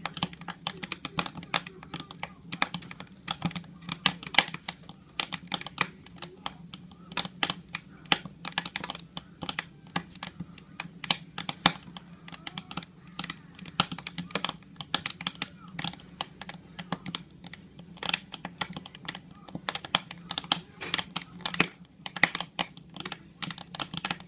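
Burning firewood crackling in a wood stove: a dense, irregular run of sharp snaps and pops over a low steady hum.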